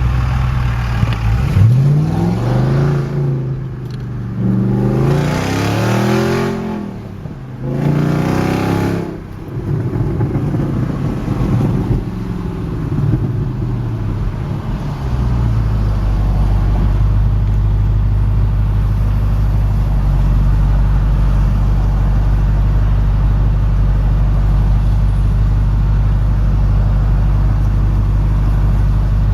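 2001 Audi S8's 4.2-litre V8 running with its mufflers bypassed, because the exhaust has separated between the catalytic converters and the mufflers. It pulls up in pitch three times in quick succession with short drops between, like upshifts. Then its pitch falls slowly as it eases off, and from about halfway it holds a steady, even note.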